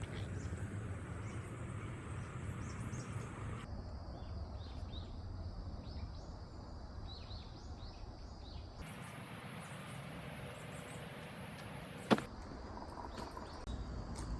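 Outdoor campsite ambience: a low steady rumble with faint, scattered bird chirps. The background changes abruptly twice, and there is one sharp click about twelve seconds in.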